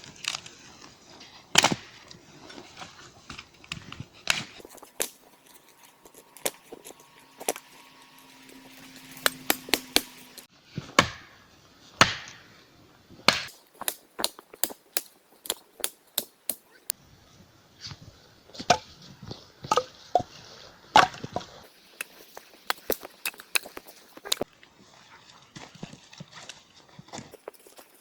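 Wood being chopped and broken with hand tools: a long series of sharp knocks and cracks at irregular intervals, at times several in quick succession.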